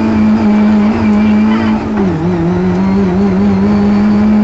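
Rally car engine running hard at high, steady revs, heard from inside the cabin. The revs dip briefly about two seconds in, then climb back and hold high.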